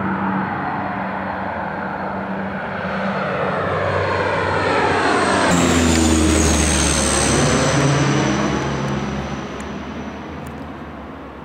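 De Havilland Canada Dash 8-100 twin-turboprop airliner at take-off power passing close by. Its engine and propeller tones slide down in pitch as it goes past, with a sharp drop about halfway through. The sound is loudest just after that drop and fades as the aircraft moves away.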